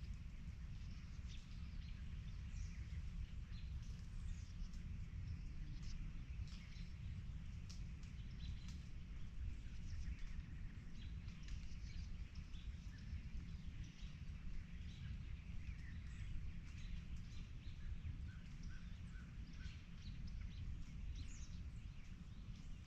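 Several songbirds chirping and singing, with a short run of quick, evenly spaced notes about three quarters of the way through, over a steady low rumble.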